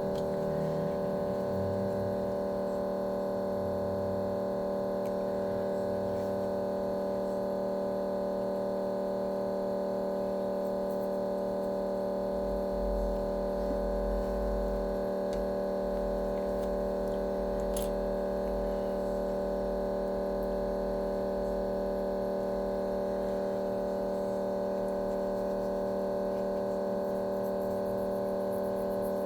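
A steady hum made of several fixed tones, holding one level throughout, with a faint low rumble in the middle.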